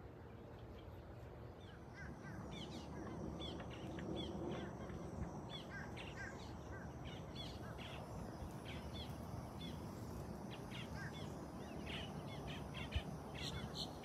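Birds chirping: many short, high chirps that begin about two seconds in and repeat irregularly over a steady low background noise, with one sharp tap near the end.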